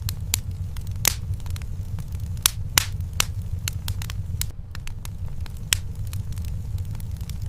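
Wood fire burning in a fireplace, crackling with irregular sharp pops over a steady low rumble; a few pops stand out louder than the rest.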